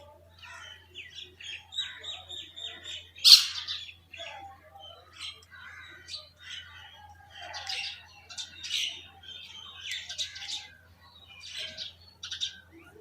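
Birds chirping in many short, overlapping calls. A quick run of repeated notes comes in the first few seconds, and one loud, harsh call stands out about three seconds in.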